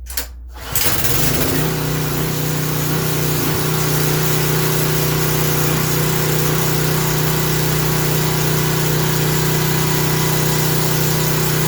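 Craftsman 3000 psi pressure washer's small gas engine starting up, catching under a second in, then running at a steady speed.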